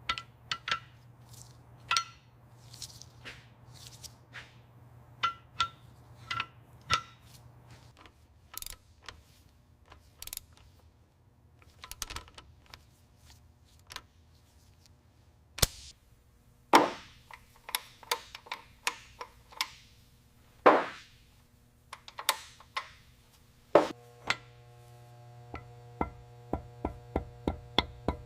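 Irregular knocks, clicks and light ringing metallic taps over a low steady hum, like tools and parts being handled. Near the end a steady hum of several tones starts, with a quick run of small clicks.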